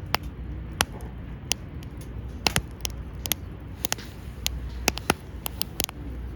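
Wood campfire crackling, with irregular sharp pops and snaps over a low steady rumble of the burning.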